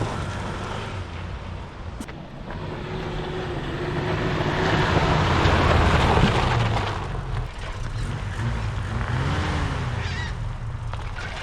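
Toyota 4Y four-cylinder petrol engine of a Hilux pickup running as the truck is driven. It gets louder under throttle up to about halfway through, then eases off.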